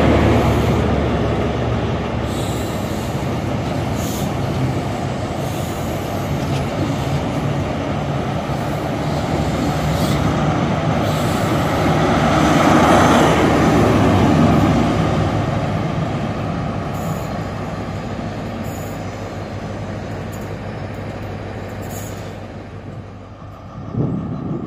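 InterCity 125 high-speed train passing: a steady diesel rumble from its Class 43 power cars, with wheel and rail noise from the Mark 3 coaches and a few sharp clicks. It gets louder about twelve seconds in as the rear power car goes by, then slowly fades.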